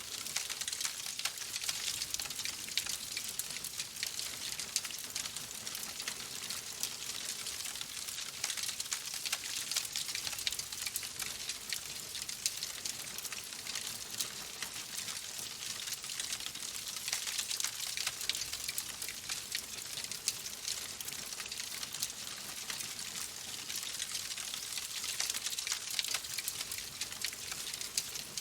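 Fireplace fire crackling: a dense, steady run of small pops and snaps over a soft hiss.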